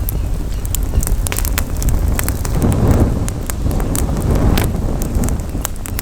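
Campfire crackling, with many sharp irregular pops and snaps from the burning wood, over a low rumble of wind on the microphone that swells about halfway through.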